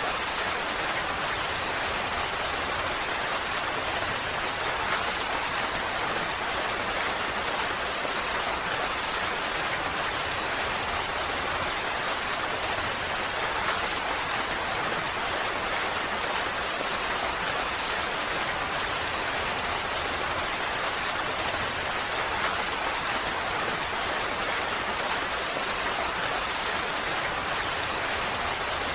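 Steady rain falling, a dense, even hiss with a few faint individual drop ticks.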